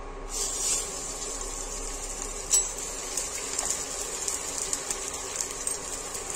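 Gond (edible gum) frying in hot oil and ghee in a kadhai: a steady sizzle that starts about a quarter second in as the gum hits the fat, with scattered light crackles as it puffs and froths.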